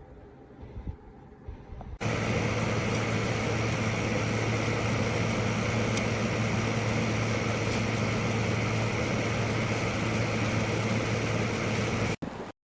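Midea portable air conditioner running: a steady rush of fan air with a low hum, starting abruptly about two seconds in and cutting off just before the end.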